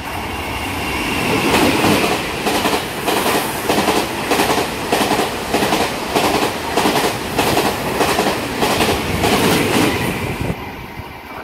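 Taiwan Railways Tze-Chiang express train passing at speed, its wheels clacking rhythmically over the rail joints about two to three times a second. The sound builds over the first second or two and fades near the end as the train goes by.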